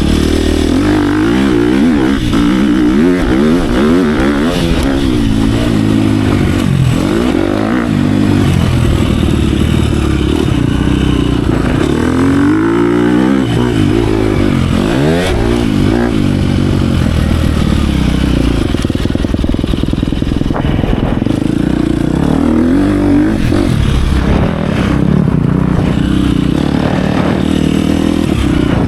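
Dirt bike engine ridden hard around a motocross track, its pitch climbing and dropping over and over as the rider opens and closes the throttle.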